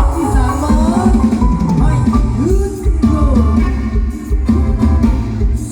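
Loud mor lam band music: a drum kit and bass beat steadily under a melody line that bends and slides in pitch.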